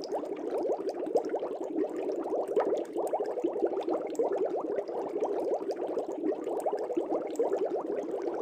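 Air bubbles rising and bursting in an aquarium, a dense, steady stream of small bubbling blips.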